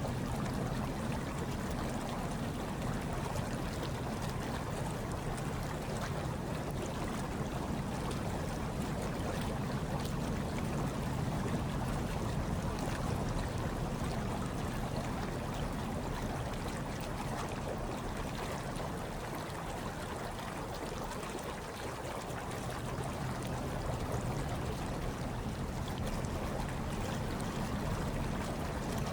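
Hot tub water churning and bubbling steadily, a continuous watery rush over a low rumble, unchanging throughout.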